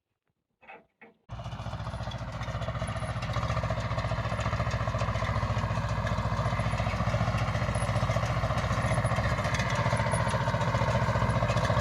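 Tractor engine running steadily at a low, even throb; it cuts in abruptly about a second in after near silence.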